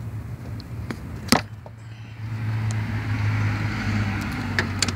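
Hand work on the serpentine belt and tensioner of a 3.4L V6 as the belt is pulled free: a sharp metallic click a little over a second in and a few lighter clicks near the end, over a steady low hum and a rising hiss.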